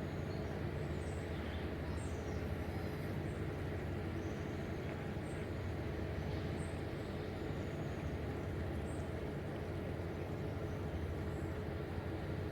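A steady low engine-like drone with a constant hum, and faint short high chirps now and then over it.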